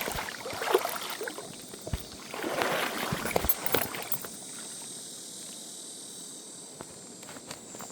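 Water splashing and sloshing around legs wading through a stream, in two bouts over the first four seconds with a few sharp knocks, then the steady rush of the stream and a steady high whine.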